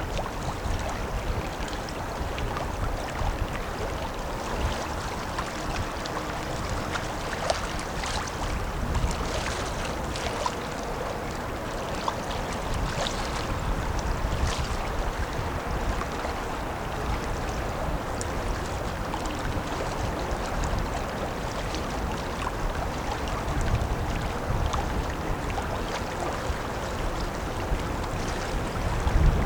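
Outdoor river ambience as a large tanker passes: wind rumbling on the microphone over water lapping and splashing, with a steady low rumble.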